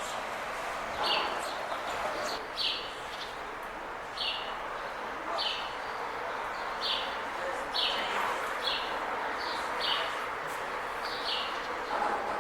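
Short, high bird calls repeated about ten times, roughly once a second, over a steady rushing background noise.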